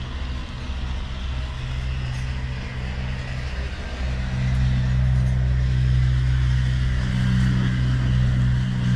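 Big Ruston Hornsby diesel engine running steadily with a low, even beat, getting louder about four seconds in.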